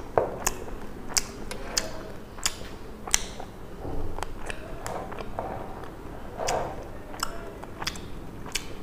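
Close-miked eating sounds: chewing with irregular sharp wet mouth clicks and smacks, about two or three a second.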